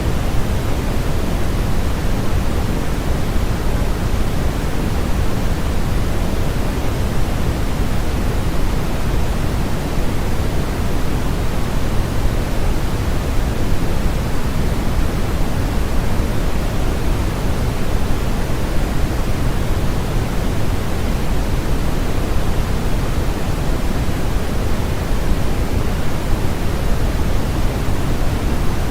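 Steady sleep-aid noise: an even, unchanging hiss that carries more weight in the low end than in the highs, shaped like pink noise rather than flat white noise.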